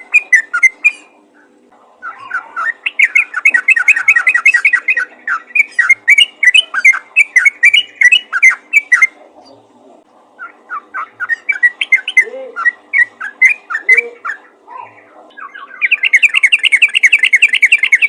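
Yellow-vented bulbul (trucukan) calling in rapid, bubbly chattering runs of several seconds each, with short pauses between; the last run near the end is faster and denser.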